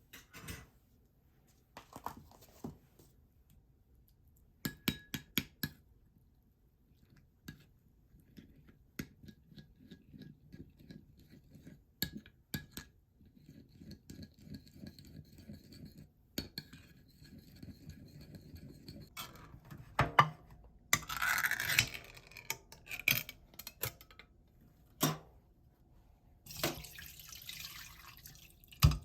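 Kitchen work: utensils and dishes clicking and tapping in short runs, with two longer stretches of hissing or scraping, one about two-thirds of the way in and one near the end.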